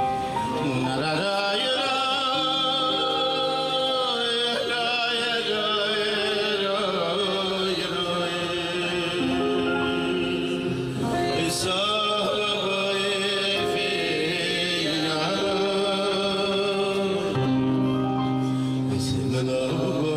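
Men singing a Jewish festive song with instrumental accompaniment, the voices gliding over held backing chords.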